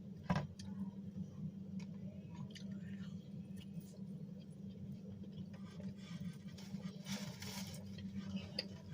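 A person chewing a mouthful of grilled chicken satay close to the microphone, with scattered small mouth clicks, over a steady low hum.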